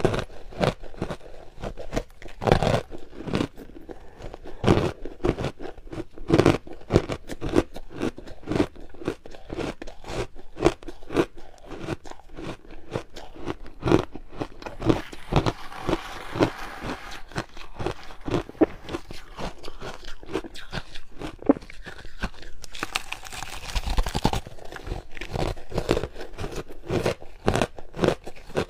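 A person biting and chewing hard ice close to the microphone: a dense, irregular run of sharp crunches and cracks, with a brief rasping noise about three-quarters of the way through.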